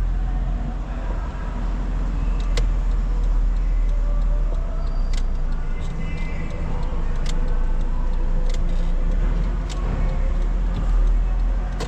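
Car interior driving noise: a steady low rumble of engine and tyres on the road, with a few sharp, irregular clicks or rattles.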